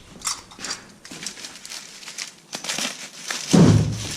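Plastic packaging crinkling and tearing as it is pulled off a new hydraulic cylinder, in irregular crackles, with a louder low knock about three and a half seconds in.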